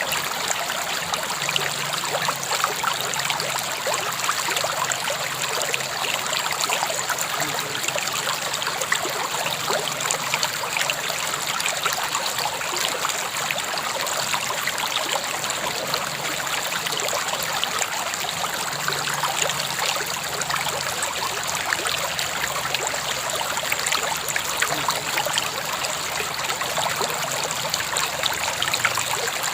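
River water flowing steadily over stones, a continuous even rush with fine trickling and splashing.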